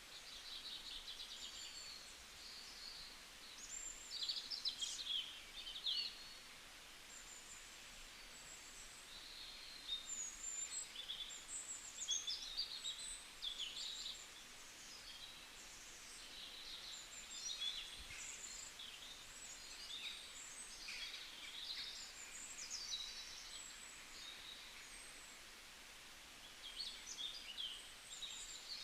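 Birds chirping and singing in bursts of quick, high, twittering calls, with short pauses between bursts, over a faint steady hiss.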